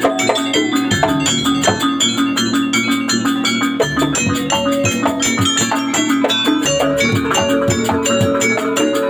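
Jaranan gamelan ensemble playing: rapid, evenly paced strokes on tuned metal instruments over drums, with steady held tones underneath.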